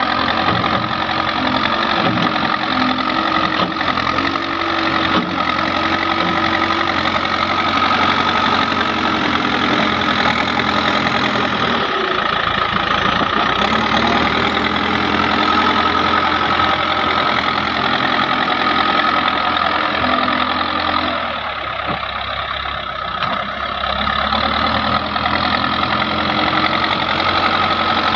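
Heavy diesel machine engine running steadily throughout, its pitch shifting at times, with a brief drop in level about twenty-one seconds in.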